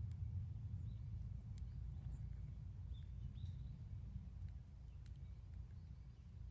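Wood campfire burning, with a few sharp crackles and pops spread out over a steady low rumble.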